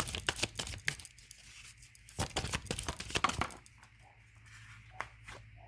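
Tarot cards being shuffled in the hands: a run of rapid flicking at the start, then a second run about two seconds in, each lasting about a second.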